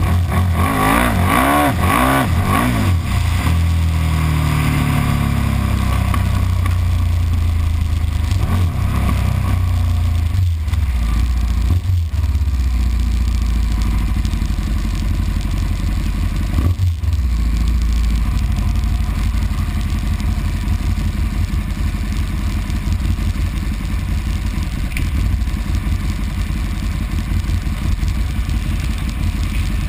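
KTM Super Duke's V-twin engine running at low revs as the bike rolls slowly, a steady low rumble. In the first few seconds engine revs rise and fall quickly, with a short dip in the engine sound three times later on.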